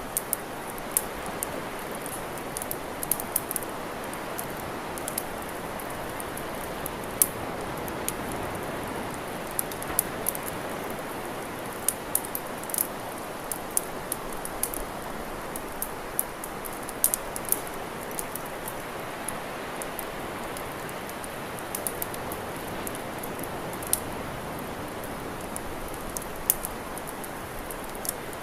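Campfire crackling: irregular sharp pops and snaps over a steady rush, which may be the fire's hiss or the surf on the beach.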